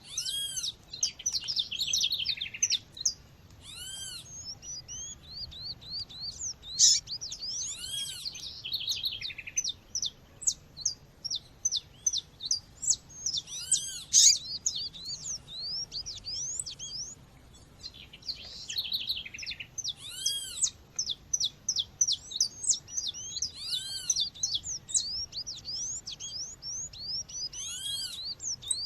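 Female Sporophila seedeater calls mixed with other birdsong: an arched call note recurs every few seconds over a dense chatter of quick rising chirps.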